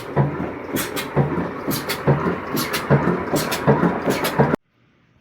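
Kala desi single-cylinder diesel engine running, with a steady rhythm of low thuds about twice a second and metallic clatter. The sound stops abruptly near the end.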